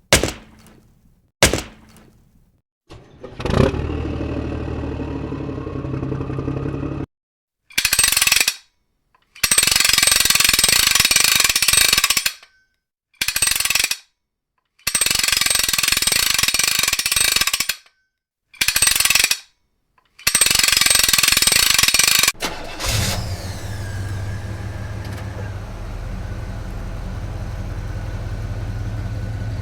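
Cartoon sound effects: a few sharp clicks, then an engine running for a few seconds. Next come six loud bursts of a hammer drill, starting and stopping with short silences between. Near the end a truck engine idles steadily.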